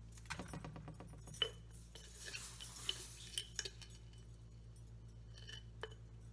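Kitchen utensil sounds: a spoon clinking and tapping against dishes and a fry pan, several separate sharp clinks, with a short scraping rush about two seconds in as sugar is scooped and tipped into the pan. A low steady hum runs underneath.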